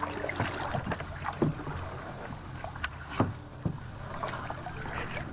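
Kayak paddles dipping and splashing in the water, with a few sharp knocks mixed in.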